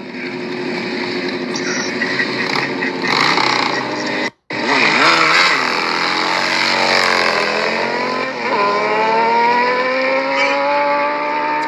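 Suzuki GSX-R sport bike's inline-four engine pulling hard under full acceleration, its pitch climbing, dropping sharply at an upshift a little past the middle, then climbing steadily again, over wind rush. The sound cuts out for a moment just after four seconds.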